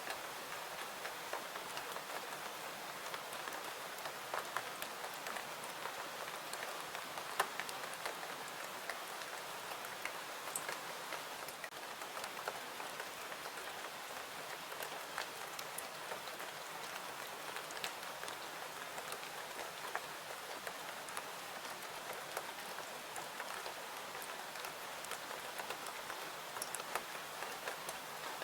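Steady rain falling, an even hiss sprinkled with many light, scattered ticks of drops.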